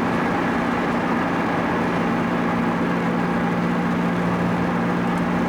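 Car engine and road noise at a steady cruise, heard inside the cabin: an even low drone whose engine note dips slightly about two seconds in.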